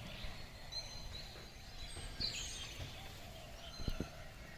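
Many birds chirping in trees, short high calls scattered over a steady low background noise, with two soft low knocks about four seconds in.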